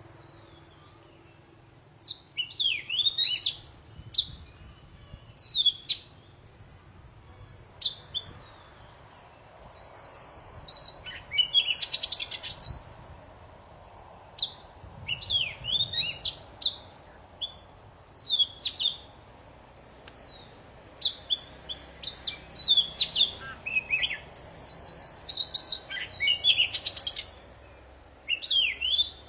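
Oriental magpie-robin of the black-bellied kacer poci type in full song: bursts of fast, varied, high whistled and chirping phrases, each a second or three long, with short pauses between them.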